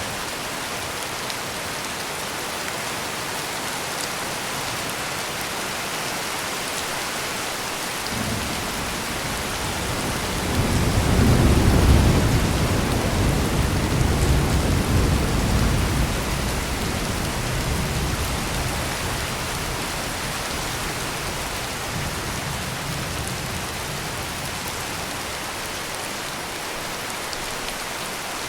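Heavy rain pouring steadily. About eight seconds in, a deep roll of thunder builds, peaks a few seconds later, and rumbles away over the next several seconds.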